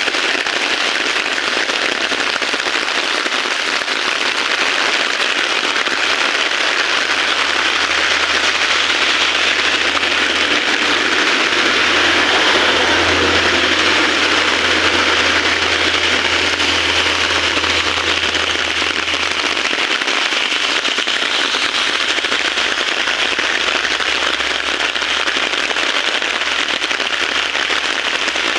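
Heavy rain pouring steadily, a dense crackling hiss of drops hitting surfaces close by, swelling a little about halfway through. A low steady rumble runs underneath through the middle part.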